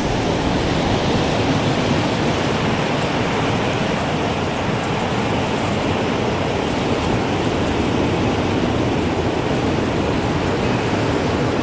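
Strong wind blowing in a steady, rushing stream, with no clear chime strikes standing out.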